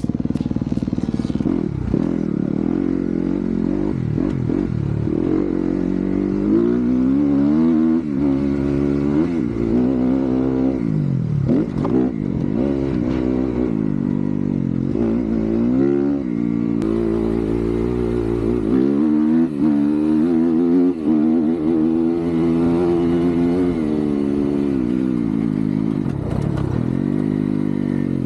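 Dirt bike engine being ridden hard, revving up and dropping back over and over as the throttle opens and closes.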